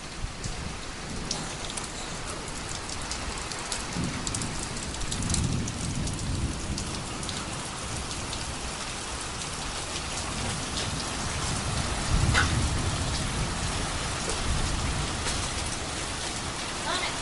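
Heavy rain falling steadily, with many close drops ticking. Low rumbles of thunder swell about four to seven seconds in and again about twelve seconds in.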